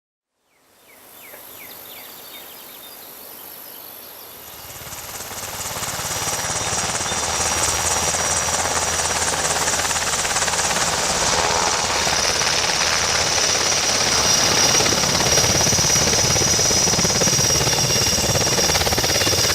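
UH-60 Black Hawk twin-turbine helicopter: rotor chop with a steady high turbine whine. It fades in, grows much louder about four to six seconds in, then holds steady and loud.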